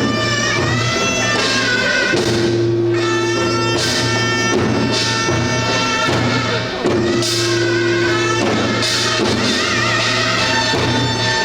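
Korean traditional folk music accompanying a Jindo drum dance: a reedy wind melody with bending, wavering notes over steady held drones, with occasional drum strokes.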